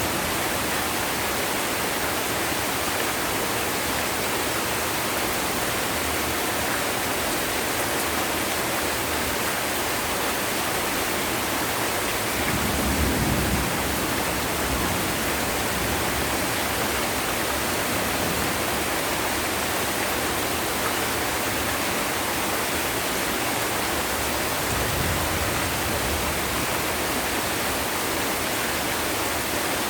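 Heavy rain falling steadily, a dense even downpour hiss. A brief low rumble swells about halfway through, and a fainter one near the end.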